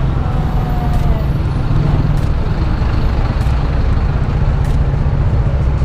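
Motorcycle on the move in traffic: a steady, loud low rumble of engine and wind on the rider's microphone.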